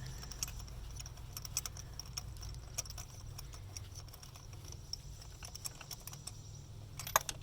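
Faint, scattered light clicks and ticks of hand-tightening a new spark plug into the engine with a clear plastic tube. A few sharper clicks come near the end.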